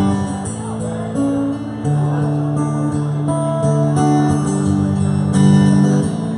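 Live band music, an instrumental passage with a strummed acoustic guitar over a bass line.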